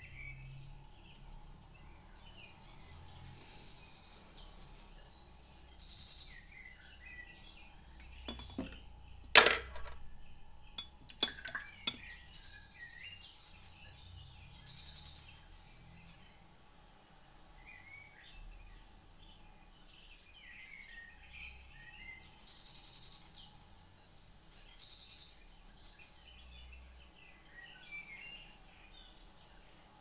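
Small birds chirping and trilling over and over. A sharp clink about nine seconds in, the loudest sound, is followed by two lighter clicks a couple of seconds later.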